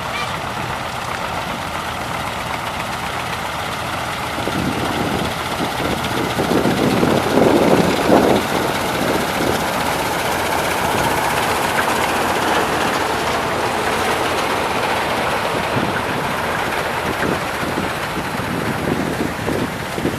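Harvesting machinery and its engine running steadily while cutting wheat, growing louder from about four seconds in and peaking around eight seconds.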